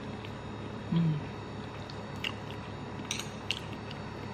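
Person chewing a mouthful of boiled egg and black bean noodles with the mouth closed. A short low 'mm' hum comes about a second in, and light clicks of metal chopsticks against the bowl follow in the second half.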